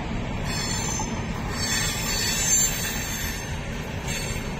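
A train rolling on the rails with a steady low rumbling noise, and a high-pitched steel wheel squeal that comes and goes three times, longest and loudest in the middle.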